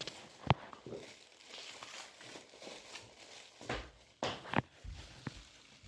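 A few sharp clicks and knocks of a toy being handled, the loudest about half a second in and several more close together near the end.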